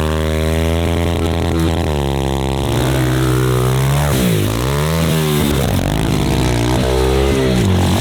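Off-road vehicle engine revving hard on a run at a jump. Its pitch drops sharply about four seconds in, as the throttle is chopped, then climbs again as it comes back on.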